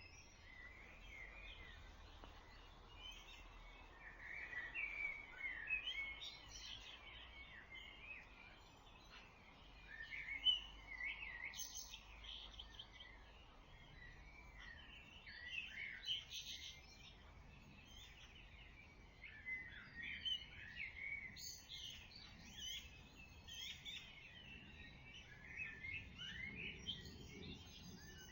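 Dawn chorus of several songbirds singing at once: many overlapping whistled and twittering phrases, rising and falling in pitch, over a faint low rumble.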